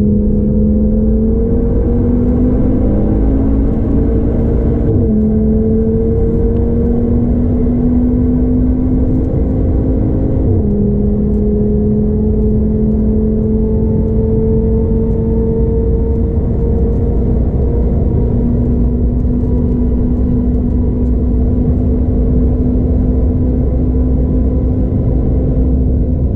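Tuned Audi TT RS's turbocharged five-cylinder engine heard from inside the cabin over road rumble. Its note drops suddenly in pitch twice in the first half, then rises slowly and steadily under hard acceleration.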